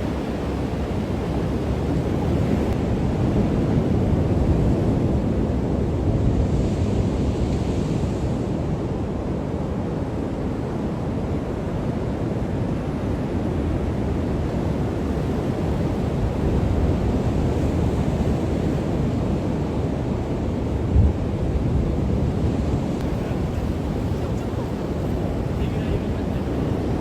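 Wind rumbling on the microphone over the steady wash of breaking surf from a typhoon swell, with a single short low thump about three quarters of the way through.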